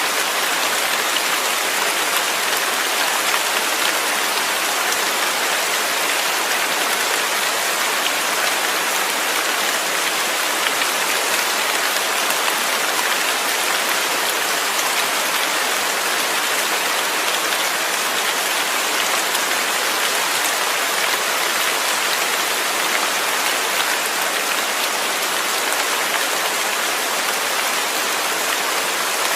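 Steady rain falling, an even, dense hiss of drops that does not change.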